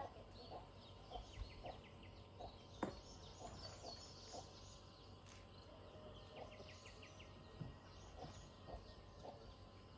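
Faint outdoor background with small birds chirping repeatedly, and a single sharp click about three seconds in.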